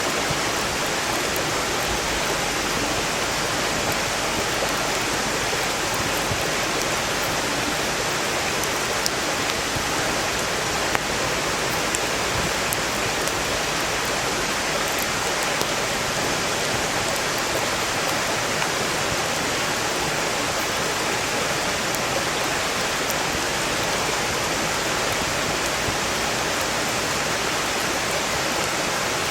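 Valley stream rushing steadily, a constant even wash of water, with a few faint crackles from a burning wood fire and one sharper pop about eleven seconds in.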